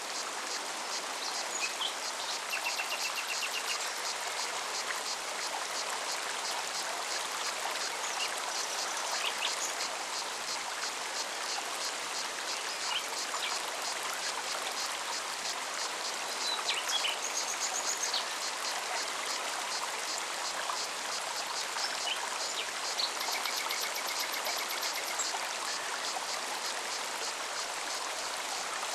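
Forest mountain stream running steadily over rocks, with a cicada's fast, even pulsing buzz throughout and a few short bird trills, one about two seconds in and another near the end.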